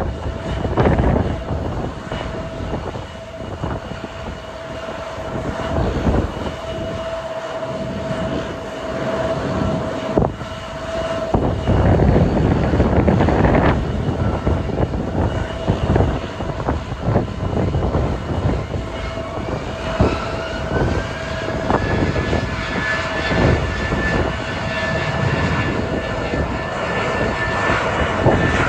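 Jet airliner engines whining, one engine tone rising about twenty seconds in and then holding as the engines spool up, under heavy wind buffeting on the microphone.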